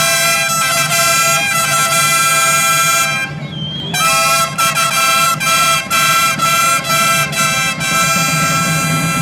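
Loud reed pipes playing a high, piercing melody over a steady low drone, in the manner of a folk bagpipe. The melody breaks off briefly about three seconds in, then resumes with separately tongued notes.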